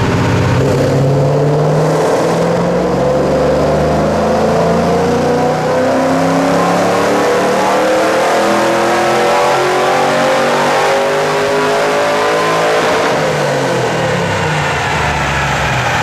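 Pontiac Trans Am's LS1 V8, fitted with headers and an aftermarket camshaft, making one long full-throttle pull. The engine note rises steadily in pitch for about thirteen seconds, then falls back near the end as the throttle comes off.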